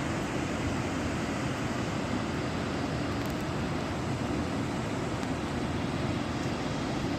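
Steady rushing noise of fast-flowing water, an even roar with no breaks, typical of a river running in flash flood.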